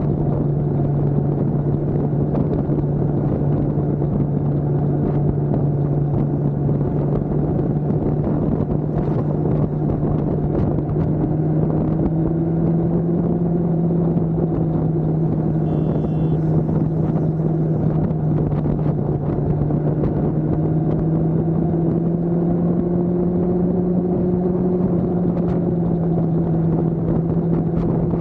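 Motorcycle engine running steadily at a nearly constant pitch, as at an even cruising speed, with a slight rise in pitch partway through.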